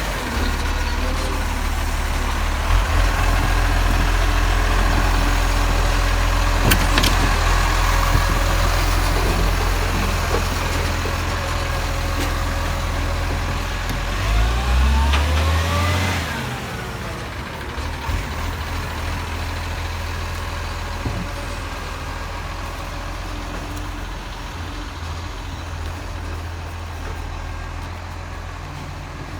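Garbage truck's diesel engine running with a heavy low rumble. About halfway through the engine note rises briefly, then the rumble drops to a quieter, steadier level.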